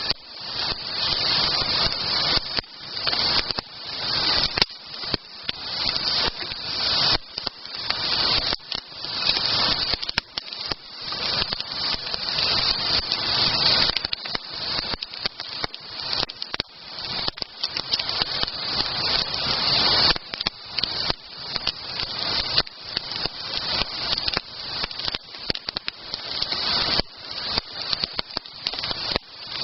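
Wood campfire burning, with dense, continual crackling and popping.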